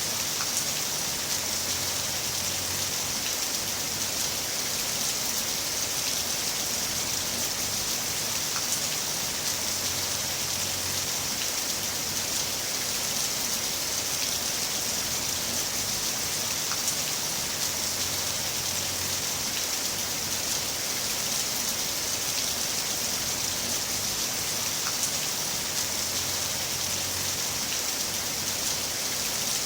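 Heavy rain falling steadily: an even, unbroken hiss with a few single drop ticks.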